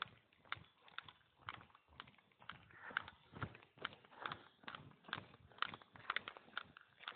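Footsteps of a hiker walking a mountain trail, about two steps a second, each a short crunch or scuff on the path.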